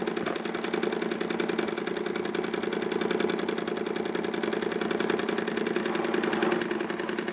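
Ernst Plank Cosmo toy vertical steam engine running steadily under steam, its piston and flywheel beating in a fast, even rhythm.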